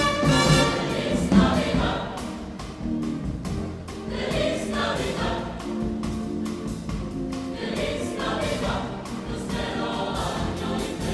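A choir singing, several sustained voices together.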